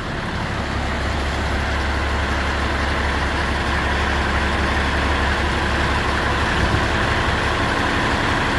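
Diesel engine of a 2017 Mack Granite garbage truck idling with a steady low rumble.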